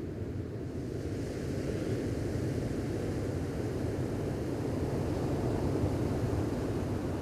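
Gentle ocean waves washing onto the beach, a low steady wash that swells from about a second in.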